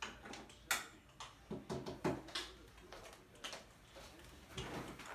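A string of sharp clicks and knocks, about half a dozen, irregularly spaced, the loudest about a second and two seconds in.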